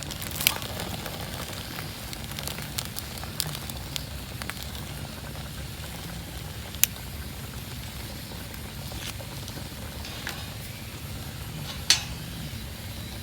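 A small wood fire just catching in a tabletop fire pit, crackling with scattered sharp pops; the loudest come about half a second in, about halfway, and near the end.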